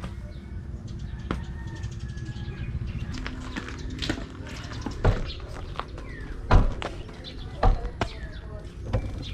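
Birds chirping over a steady low rumble, with a few sharp knocks or thumps in the second half.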